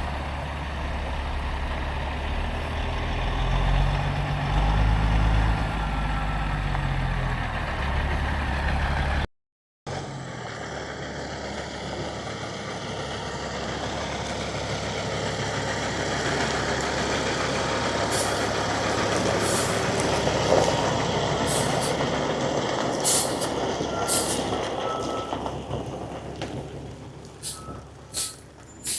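Heavy diesel machinery running: an engine rumbling with its pitch rising and falling under load, then, after a sudden break, a dump truck with air hissing, sharp clicks and a few short high beeps near the end.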